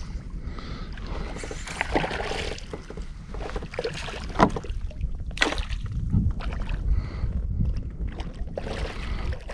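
Scattered knocks and clicks of handling gear and fish in a plastic kayak, the sharpest about halfway through, over a steady low rumble.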